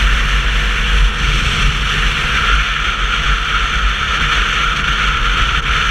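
Steady wind and road noise from a Sinnis Terrain 125cc motorcycle under way, a low rumble under a constant rushing hiss.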